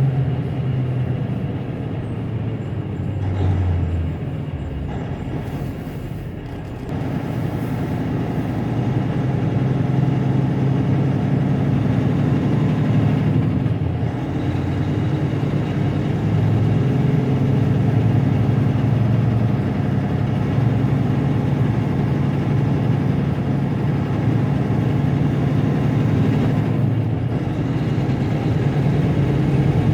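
Diesel engine of a semi-truck running steadily under way, with its engine note dipping briefly a few seconds in and again about halfway through.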